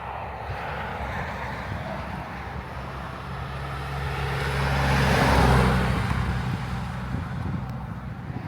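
Cabin noise of a Mercedes-Benz W123 turbo-diesel wagon on the move: its five-cylinder turbo diesel's steady low drone under road noise, quiet for a diesel. The noise swells and fades again about halfway through.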